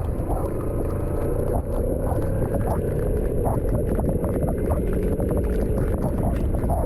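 Steady low rumble of a vehicle travelling on a road, with wind buffeting the microphone and scattered light ticks.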